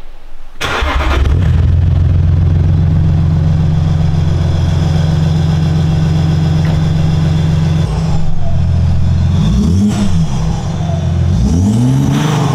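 An Audi A4 B7's 2.5-litre TDI V6 diesel is started: it cranks and catches, then idles steadily. Near the end it takes two quick throttle blips, the second a bigger rev that rises and falls.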